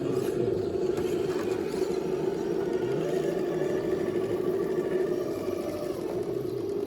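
Electric motor and gear drivetrain of a 1/10-scale RC rock crawler whirring steadily as it drives.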